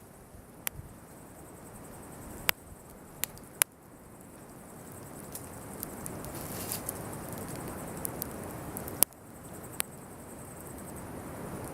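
Wood campfire crackling, with several sharp pops and a steady hiss of flames that grows louder as the fire flares up; the loudest pop comes about three-quarters of the way through.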